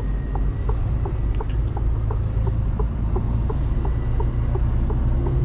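Heavy truck engine running steadily under a low drone, heard from inside the cab, with an even ticking at about three ticks a second, like a turn-signal relay.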